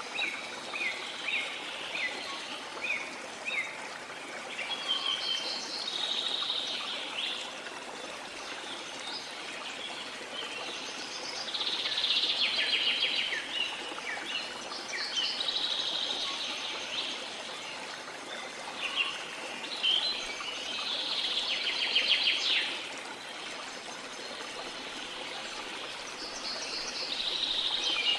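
Songbirds singing over a steady wash of sea water: a run of short chirps at the start, then trilled song phrases every few seconds.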